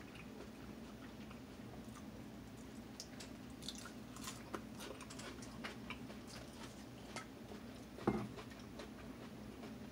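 A person chewing a forkful of raw lettuce with dipping sauce, with small crisp bites and wet mouth clicks. A louder, duller thump comes about eight seconds in.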